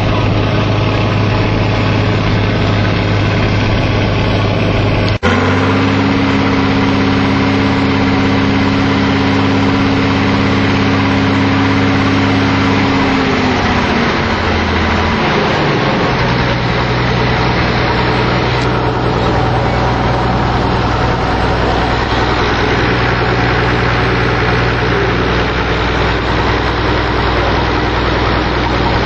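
Farm diesel engine running steadily. About five seconds in the sound changes abruptly to a different engine note, which drops in pitch as the engine slows between about 13 and 16 seconds in, then runs on steadily.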